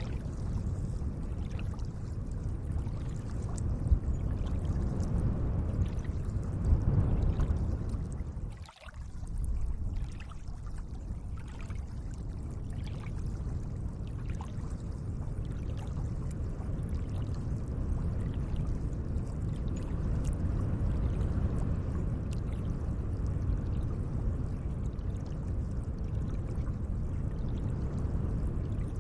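Gentle lake water running and lapping steadily, with faint small drip-like ticks over it. The sound drops out sharply for a moment about nine seconds in, then carries on.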